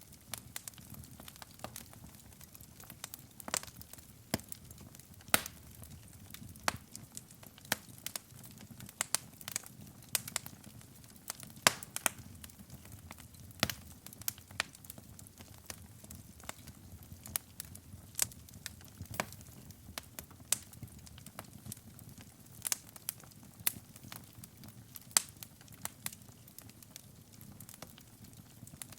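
Wood fire burning in a fireplace: irregular sharp crackles and pops, several every second, over a low steady rumble of the flames.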